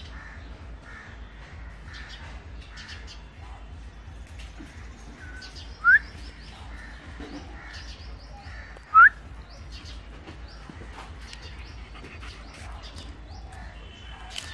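Birds calling and chirping over a low background hum, with two loud, short rising squeaks about three seconds apart.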